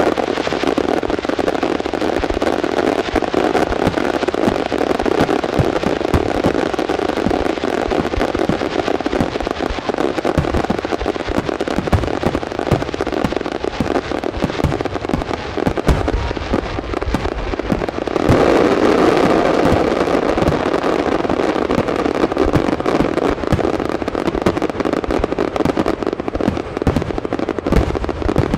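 Aerial fireworks going off in a dense, continuous barrage: many bangs over steady crackling, swelling louder about two-thirds of the way through.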